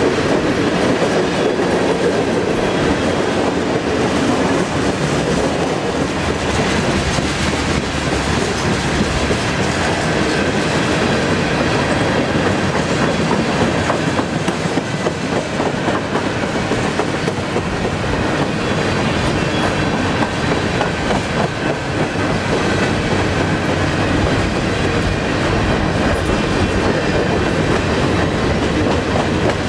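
Freight cars (gondolas, flatcars and covered hoppers) of a freight train rolling past on steel wheels: a steady rumble with a rapid clickety-clack of wheels over the track.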